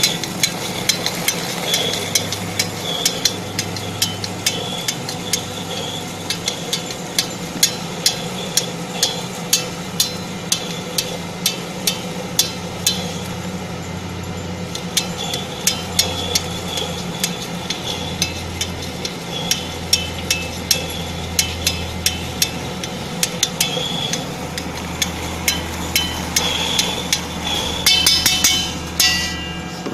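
GG50 peanut butter grinder running: a steady motor hum under frequent sharp clicks, with a louder burst of rattling near the end.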